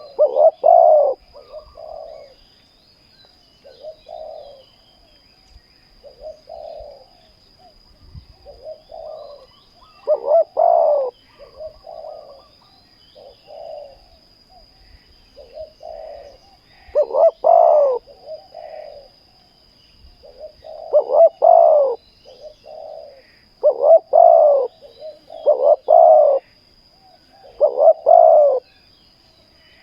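Spotted doves cooing in repeated rhythmic phrases: loud, close coos come every few seconds, with fainter coo phrases between them.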